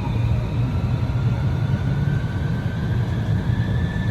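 Haga–Utsunomiya LRT tram running under power: a slowly rising electric motor whine over a steady low rumble of wheels on rail, typical of the tram gathering speed after pulling away from a stop.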